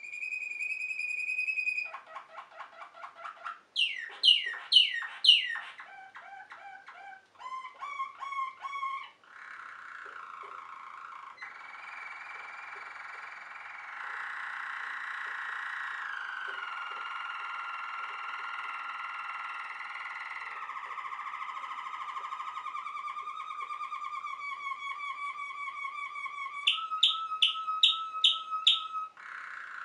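Waterslager (Malinois) canary singing a long unbroken song made of changing tours: a held whistle, fast repeated notes, a few loud sweeping notes falling in pitch, then long low rolling trills, and near the end a run of loud sharp repeated notes.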